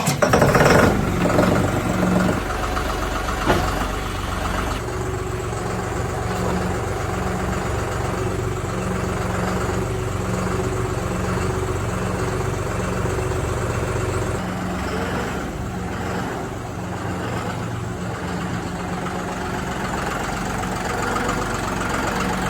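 Tractor engine with a loud surge right at the start, then running steadily at a low idle.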